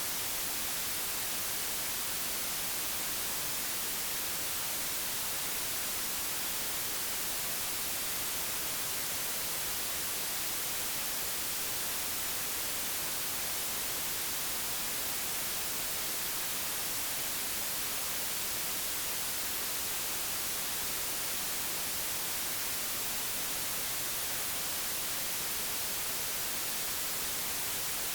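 Digitally generated white noise: a steady, even hiss with no changes or events.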